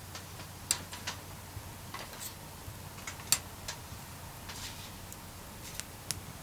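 Wood burning in a campfire, crackling with irregular sharp pops and snaps, the loudest about halfway through.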